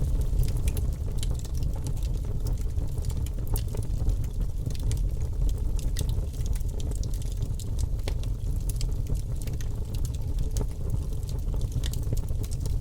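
Wood logs burning in a fireplace: many small, irregular crackles and pops over a steady low rumble of the fire.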